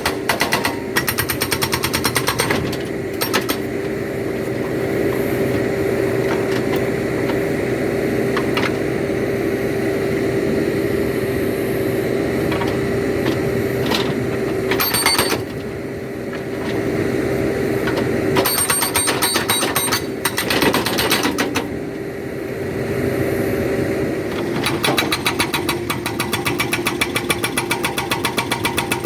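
A backhoe-mounted hydraulic rock breaker hammering in bursts of rapid, evenly spaced blows: at the start, briefly past the middle, for a few seconds after that, and steadily again near the end. Between the bursts the backhoe's engine and hydraulics run with a steady hum.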